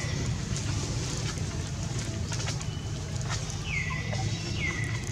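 Outdoor ambience with a steady low rumble underneath. A bird call sounds twice near the end, each a short note that drops in pitch and then holds level, with faint light rustles between.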